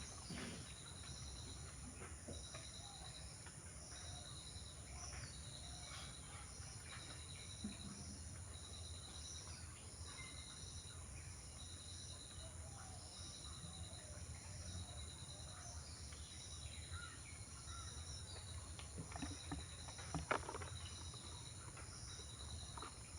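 Insect chirping in short high trills, about one a second, over a low rumble, with faint scattered bird chirps and a sharp click about 20 seconds in.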